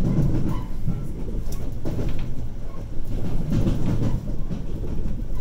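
Electric passenger train running, heard from inside the carriage: a steady low rumble with a few wheel clacks over rail joints.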